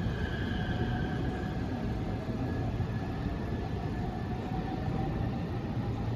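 Southeastern Class 395 high-speed electric multiple unit pulling away from the platform: a steady rumble of the train with a faint whine over it.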